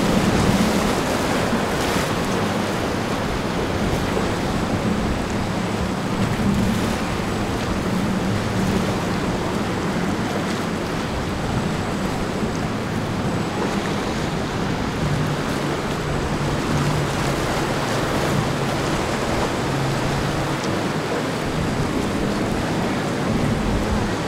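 Ocean waves washing through the inlet and wind buffeting the microphone, with the low drone of boat engines running under it.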